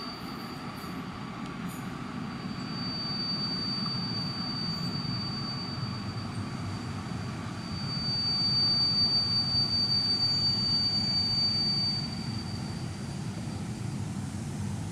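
An EP07 electric locomotive hauling a passenger train slowly into a station. A low rumble from the train runs under a thin, steady, high-pitched squeal, and both grow loudest about two-thirds of the way through as the train draws nearer.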